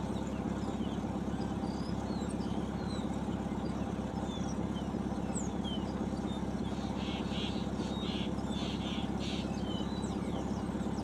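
An engine running steadily at idle, a low even hum, with scattered high bird chirps over it and a quick series of about six short rasping bird calls about seven seconds in.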